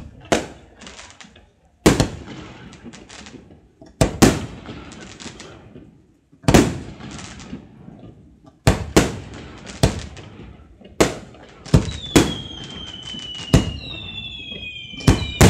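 Fireworks display: aerial shells bursting one after another, about fifteen sharp bangs, each followed by a fading crackle, coming faster in the second half. From about twelve seconds in, several whistles glide slowly down in pitch over the bangs.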